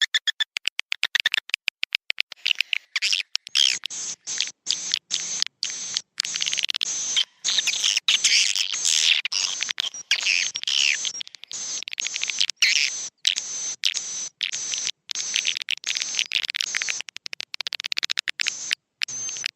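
Swiftlets twittering: a fast run of even clicks at first, then dense trains of short, high chirps broken by brief gaps. A swiftlet roosting-call recording of the kind played to draw swiftlets into a nest house.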